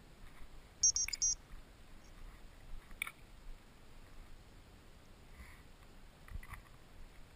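A quick run of high electronic beeps about a second in, then only faint clicks and rustles.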